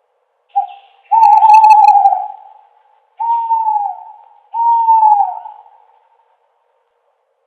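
An owl hooting: a short hoot, then a long one, then two more hoots that each drop in pitch at the end, with a pause after them.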